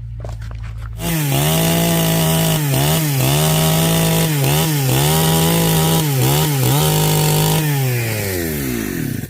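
A power saw cutting wood: its motor runs at high speed with a steady whine that dips in pitch several times as it bites into the wood, then spins down with a falling pitch and stops near the end.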